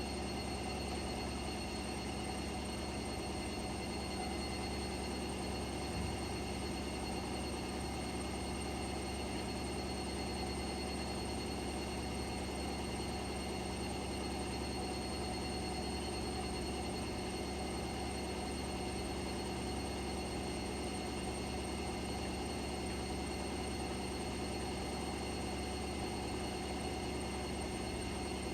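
Washing machine running through a load of laundry: a steady mechanical hum with constant motor tones and a low rumble, unchanging throughout.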